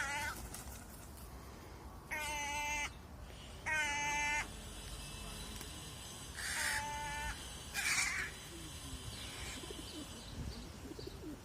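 Crow calling: five drawn-out, nasal caws about two seconds apart through the first eight seconds, the last one harsher.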